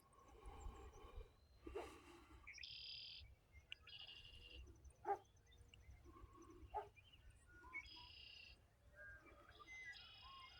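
Faint dawn chorus of songbirds, one bird repeating a short, high trilled phrase four times with softer calls from other birds between. A sharp tick sounds about five seconds in.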